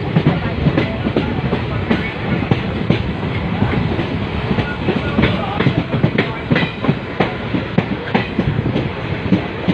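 Passenger train running along the track, its coaches' wheels clattering over the rails: many quick irregular clicks and knocks over a steady rumble.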